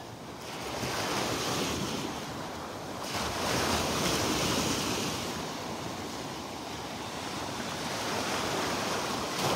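Small waves washing up on the beach, the surf swelling and easing several times, with wind buffeting the microphone.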